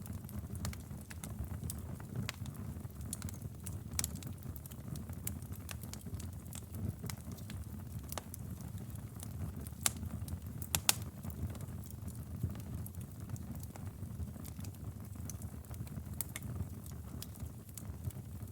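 Wood fire crackling in a fireplace: a steady low rumble of burning logs with scattered sharp pops, the loudest two about ten and eleven seconds in.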